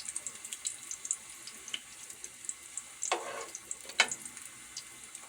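Green plantain pieces frying in hot oil: a steady hiss with fine crackles. Two sharp knocks come about three and four seconds in.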